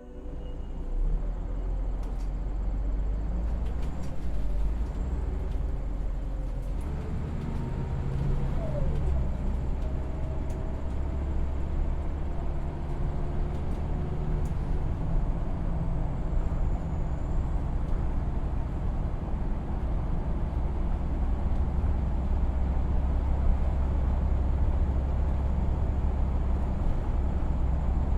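Steady road traffic noise: a continuous low rumble of passing vehicles, with faint engine tones drifting in pitch.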